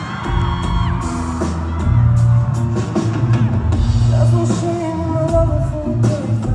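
Live band playing a rock song: drum kit hits over a steady low bass line, with a voice singing.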